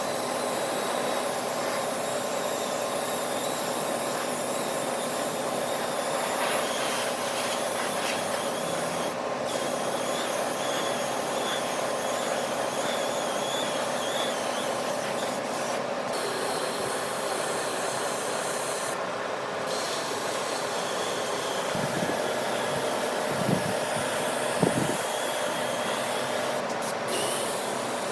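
Wood lathe running with a steady hissing rub against the spinning workpiece. Two brief knocks come about three-quarters of the way through.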